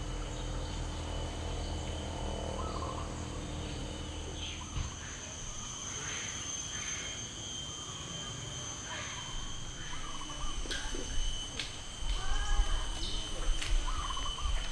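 Forest ambience: insects keep up a steady high-pitched drone on several held tones while birds chirp now and then over a low steady rumble. A few louder low knocks come near the end.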